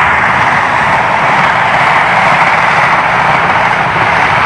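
InterCity 125 High Speed Train passing close at speed, its Mark 3 coaches making a steady, loud rush of wheels on rail and air.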